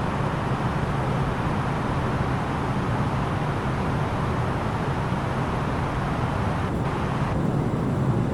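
Steady in-flight cabin noise of an Airbus A330-900neo in descent: an even rush of airflow over the fuselage mixed with the hum of its Rolls-Royce Trent 7000 engines, the higher hiss easing slightly near the end.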